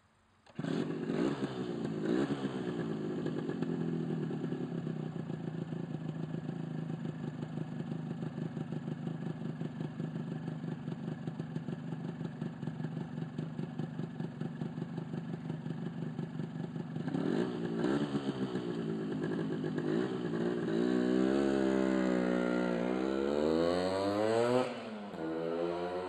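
Honda NS125R single-cylinder two-stroke motorcycle engine idling with a fast, even pulse, then revved several times in the second half, its pitch rising and falling, before dropping back to idle just before the end.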